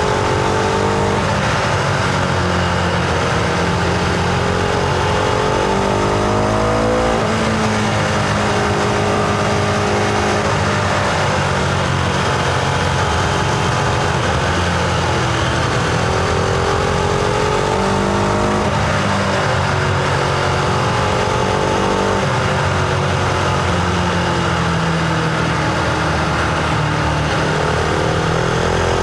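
Husqvarna Vitpilen 701's single-cylinder engine and exhaust, heard from the rider's seat while riding: the engine note repeatedly rises as the bike accelerates, then drops back at each gear change or roll-off, several times over.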